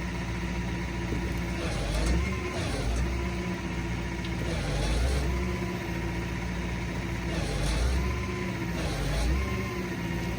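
Truck engine running steadily, its speed rising and falling briefly several times, with bursts of hiss at the higher revs.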